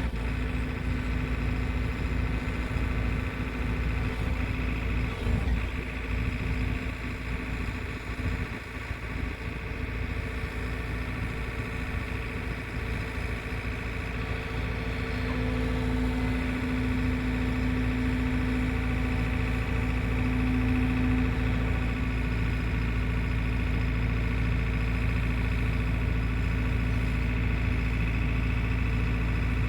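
Excavator engine running steadily, getting a little louder from about halfway through.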